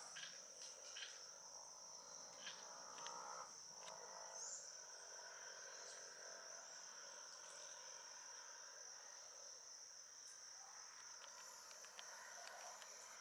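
Faint, steady high-pitched insect drone, with faint bird calls now and then.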